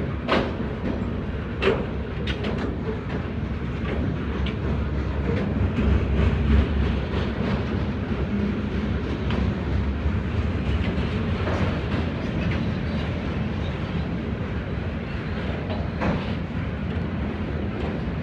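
Freight cars rolling past on the rails: a steady rumble of wheels with clickety-clack and a few sharp clanks, the loudest about a second and a half in.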